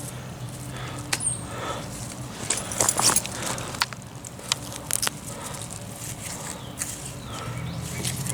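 Bull thistle being pulled up by hand: leaves rustling and crackling, with sharp snaps and tearing of stems at irregular moments.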